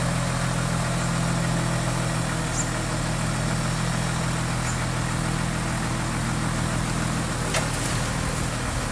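Diesel engine of heavy construction equipment idling steadily, with a single short click about seven and a half seconds in.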